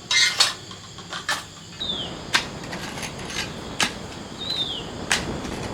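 Scattered light knocks and taps of wood being handled in building work, the sharpest just after the start. A short falling chirp sounds twice over them.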